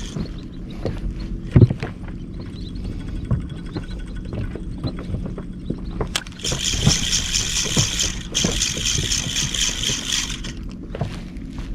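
Small boat at sea: a steady low rumble of wind and water against the hull, with a few knocks, the loudest about a second and a half in. From about six seconds in, a hiss with a fast, even ripple runs for about four seconds, then cuts off.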